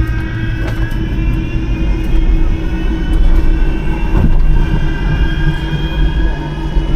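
Metrolink tram running along the track, heard from on board: a heavy rumble from wheels and track under a whine of several tones from the traction motors, drifting slightly in pitch. Two brief knocks come through, about a second in and again past the middle.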